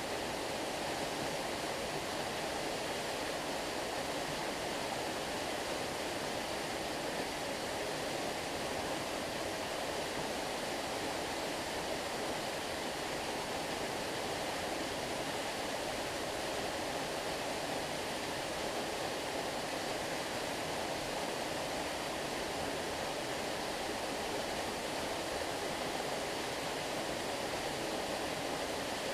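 Flowing stream water rushing steadily, an even, unbroken noise.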